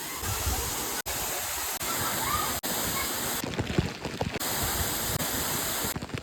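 Waterfall rushing in a steady roar of falling water, with two brief dropouts where the sound cuts out for an instant.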